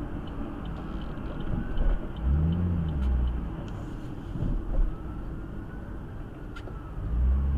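Car driving: a steady low engine and road rumble, with a louder low hum about two seconds in and again near the end.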